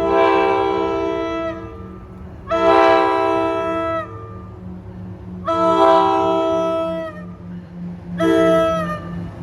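Train's multi-chime air horn sounding a series of blasts: three long ones and then a short one near the end, each a chord of several tones that sags in pitch as it cuts off. A steady low rumble runs underneath.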